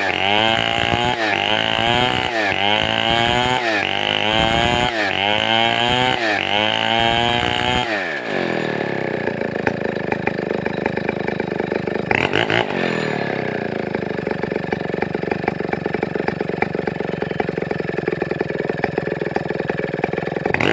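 Large two-stroke chainsaw of the Stihl 070 pattern (070/707) revved up and down about once a second. About eight seconds in it drops back to a steady idle, with one short blip of the throttle near the middle.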